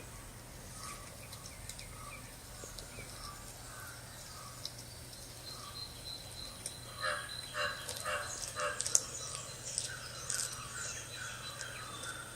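Short chirping calls repeating at under a second apart, becoming louder and busier after about seven seconds, over a steady low hum.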